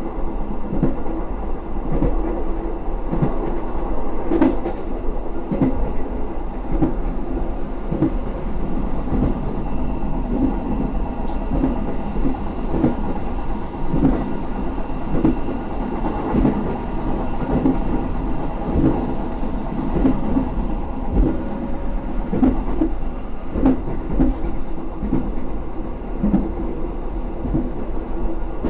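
Argo Semeru passenger train running along the track: a steady rumble with the wheels clacking over rail joints again and again. A hiss joins in about twelve seconds in and fades away some eight seconds later.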